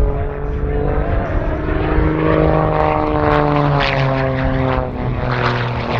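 Propeller engine of a Rebel 300 aerobatic monoplane running during an aerobatic display. The engine note rises about two seconds in and then falls away as power and airspeed change.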